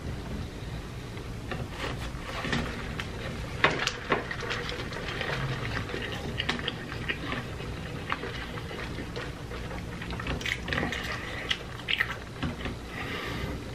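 Wet chewing and lip-smacking of a large mouthful of cheeseburger, with many small sticky clicks scattered throughout.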